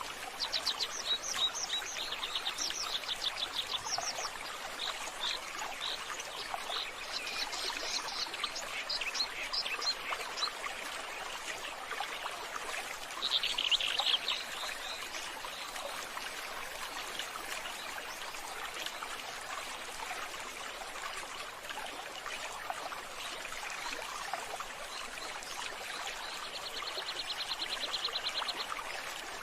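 Steady rush of flowing water, with birds calling over it: runs of short high chirps in the first ten seconds, a louder burst of calls about halfway through, and a fast trill near the end.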